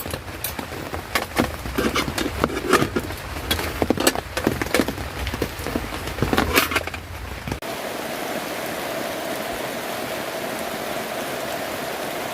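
Heavy rain: for about the first two-thirds, irregular sharp taps and patters close to the microphone over a low rumble. These change suddenly to an even, steady hiss of rain.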